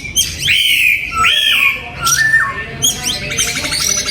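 Oriental magpie-robin singing: a string of varied clear whistled phrases that rise and fall in pitch, with a fast run of repeated notes near the end.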